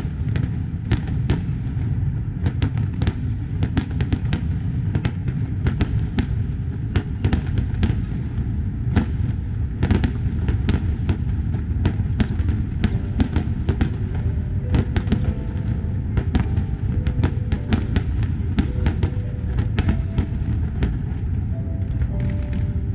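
Large aerial fireworks display: rapid, irregular bangs and cracks, several a second and often overlapping, over a continuous low rumble of distant bursts.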